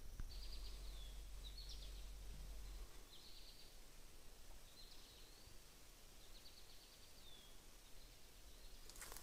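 Faint woodland background with a bird calling over and over: a short, buzzy, high chirp with a falling end, about once a second. A low rumble stops about three seconds in, and a few footstep crunches come near the end.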